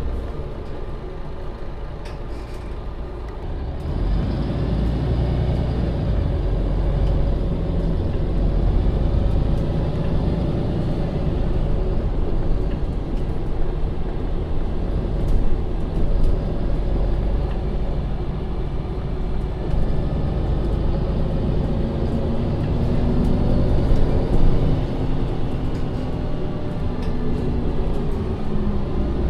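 2015 MAN Lion's City (NL 283) city bus heard from inside while driving. Its diesel engine and drivetrain run under load, growing louder about four seconds in as the bus accelerates, and the engine pitch rises and falls later on.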